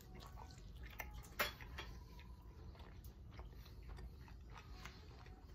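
Close chewing of a toasted chicken quesadilla: soft crunches and small clicks, the sharpest about a second and a half in, over a low steady hum.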